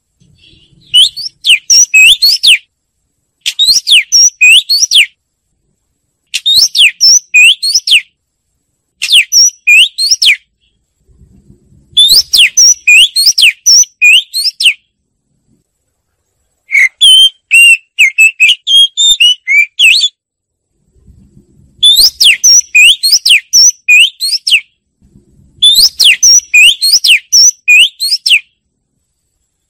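Oriental magpie-robin singing: phrases of fast, high, gliding whistled notes, each a second or two long, repeated about eight times with short pauses between.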